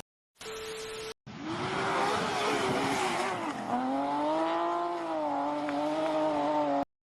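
Motor vehicle sound: a loud rush with a pitched whine that dips, rises and falls again over several seconds, after a short steady tone about half a second in. The sound is cut off abruptly near the end.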